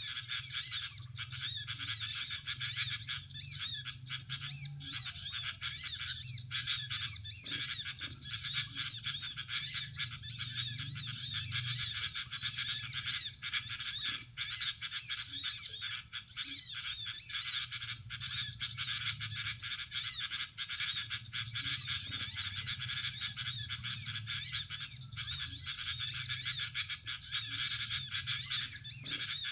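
Small birds chirping rapidly and without pause in high, quick, repeated notes, with a low steady hum underneath.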